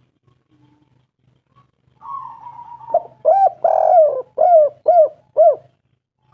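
Spotted dove cooing. A rough, burry opening note is followed by a run of about six short arched coos, the middle one longest.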